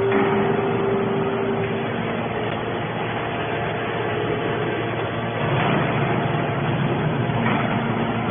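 Steady machine running noise with a low hum and a few faint steady tones, swelling slightly twice toward the end.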